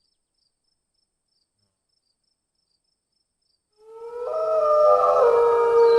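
Silence for about four seconds, then a wolf howls: one long, held note that slides up slightly as it starts.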